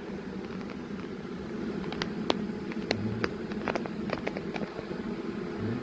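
Honeybees buzzing around the hive in a steady drone, with scattered clicks through it.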